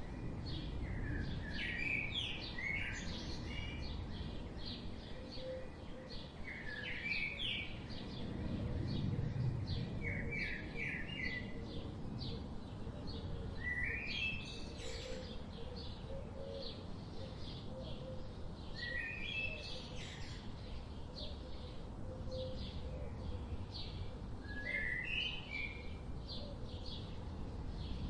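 Birdsong: one bird repeats a short phrase of rising notes about every five or six seconds, with many quick high chirps between, over a low steady background rumble.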